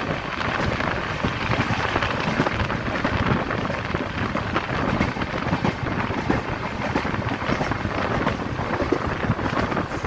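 Swaraj Express passenger train running at speed: a steady rumble with fast rattling of the coach and wheels on the track.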